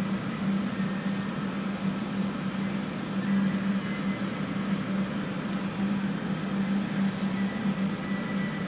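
Several electric fans running steadily to pull away soldering fumes, a constant whooshing hum with a low drone.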